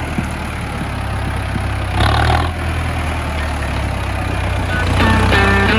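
Mahindra tractor's diesel engine running steadily at a low, even pitch, with a brief louder rush of noise about two seconds in. Background music comes in near the end.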